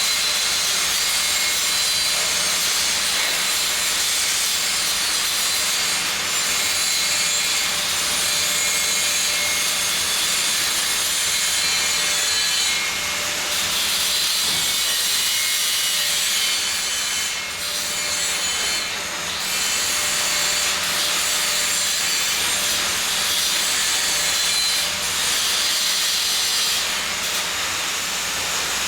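Electric welding arc running with a steady crackling hiss, breaking off briefly twice past the middle.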